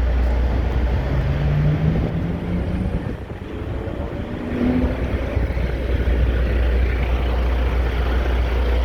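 Parked commercial truck's engine idling: a steady low rumble that eases off briefly about three seconds in, then returns.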